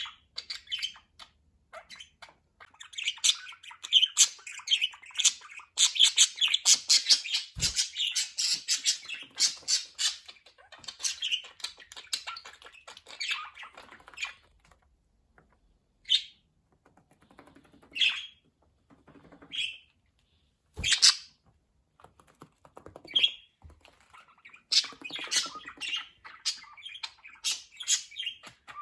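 Pet budgerigars chattering in a fast, busy warble. Partway through this thins to a few separate short chirps and squawks, and the chatter picks up again near the end.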